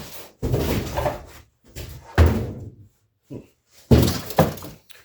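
Three short bouts of thudding and knocking, like hard objects being handled and set down.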